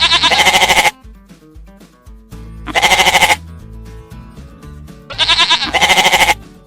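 Goat bleating, four or five quavering calls, each under a second long, with background music underneath.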